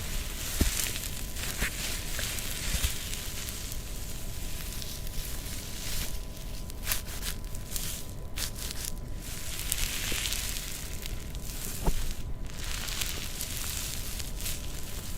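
Close-up ASMR crackling and rustling: something dry being handled and crushed right at the microphone, with irregular small clicks and pops.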